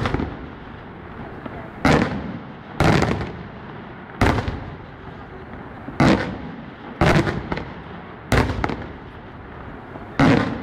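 Fireworks exploding in a steady string of loud, sharp bangs, about eight in all, roughly one to two seconds apart, each trailing off in a short echoing rumble.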